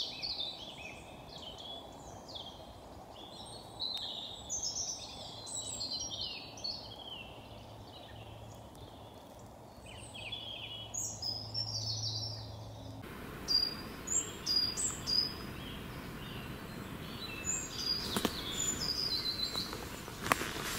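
Several woodland birds singing, a busy mix of short chirps and warbled phrases over a faint steady hiss.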